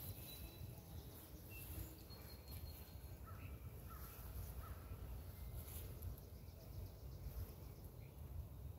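Faint outdoor ambience: scattered short bird chirps and calls over a steady low rumble.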